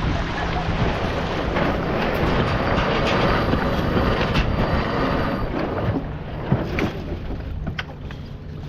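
Wind buffeting the microphone and water rushing past the hull of a sailboat under way, a steady noisy wash that eases a little about six seconds in. A few sharp clicks sound near the end.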